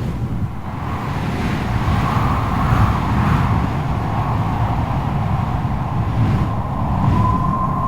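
Strong wind blowing in gusts: a deep rumble under a wavering howl. About seven seconds in, a thin, high whistling howl sets in and holds.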